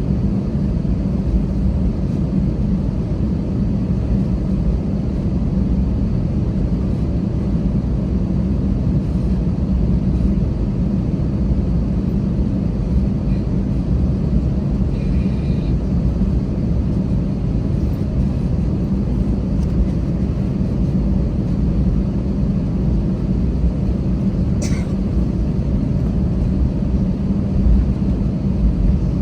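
Steady low rumble inside an Airbus A320's cabin, the engines and cabin air running with no change in pitch. A single sharp click comes about 25 seconds in.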